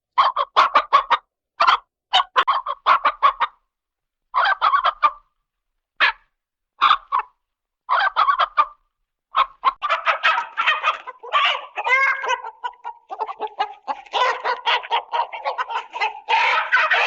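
Chicken clucking sound effects: short bursts of rapid clucks with silent gaps between them, then a denser, unbroken stretch of clucking from about halfway through.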